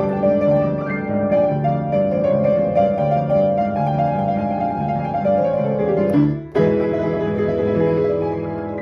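Piano playing a fast, busy passage of notes and chords, which breaks off abruptly about six and a half seconds in, followed by a new chord that rings on.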